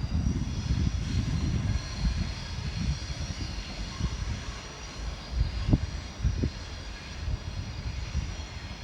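A train running past at the station: a loud low rumble with a faint steady high-pitched whine, slowly fading.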